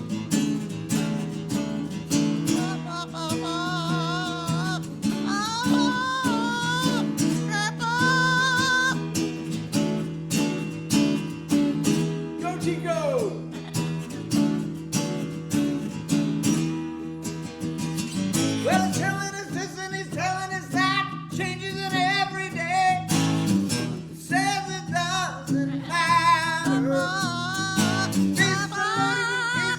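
Acoustic guitar strummed steadily, with a high, wavering singing voice over it in two stretches, a few seconds in and again from about two-thirds of the way through.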